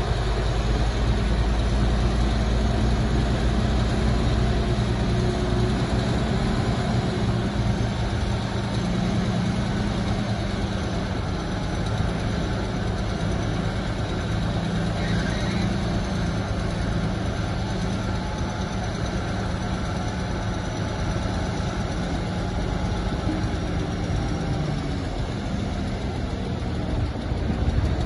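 Diesel engine of heavy earthmoving machinery running steadily, with a deep rumble that eases after the first several seconds.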